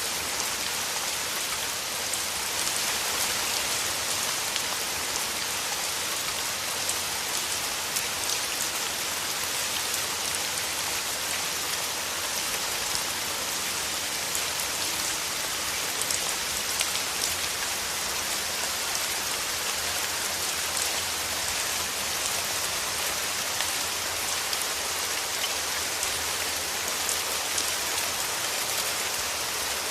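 Steady rain falling through forest trees, an even hiss with many small drops pattering on leaves.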